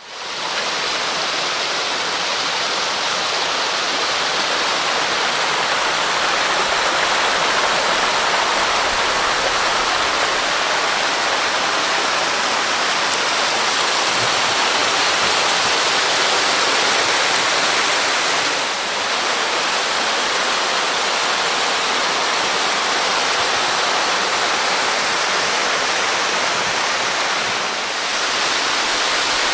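Steady rush of water pouring over a 6 m waterfall, coming in sharply at the start.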